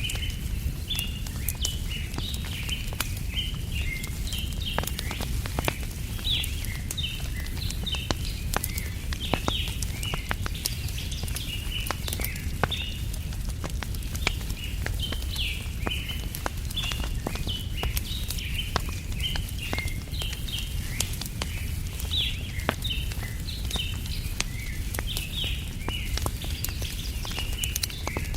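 Wood fire crackling with sharp irregular pops over a low steady rumble, while small birds chirp in quick repeated bursts of short high notes.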